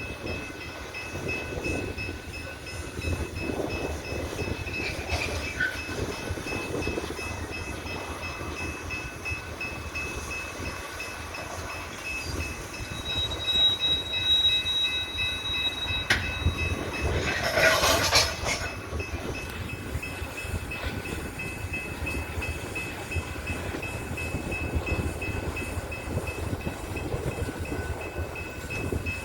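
Loaded coal train moving slowly, a steady low rumble of rolling railcars with faint clacking. A thin high squeal runs for a few seconds about halfway through, and a short louder burst comes about two-thirds of the way in.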